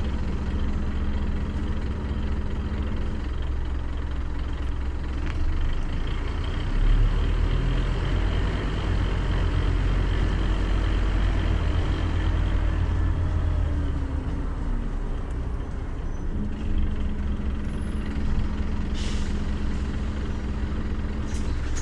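Scania CN270UB city bus's diesel engine heard on board: a steady idle, then heavier pulling under load with shifting pitch, then settling back to a steady idle. A short hiss of compressed air comes near the end.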